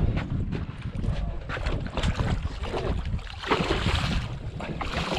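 Wind buffeting the microphone aboard a boat at sea, a gusty low rumble, with a louder hiss swelling up about three and a half seconds in.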